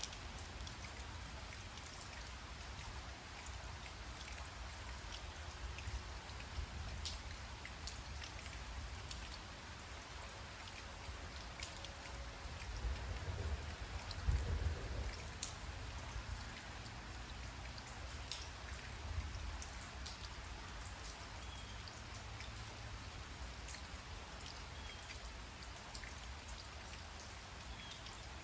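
Steady rain falling, with individual drops ticking sharply close by. A low rumble swells and fades about halfway through.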